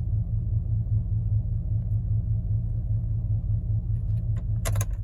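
2002 Chevrolet Silverado pickup's engine idling steadily with a low, even exhaust rumble. A few sharp clicks come near the end.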